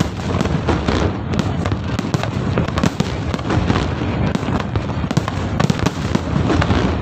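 Fireworks display: a dense, unbroken barrage of many sharp bangs and crackles over a steady low rumble.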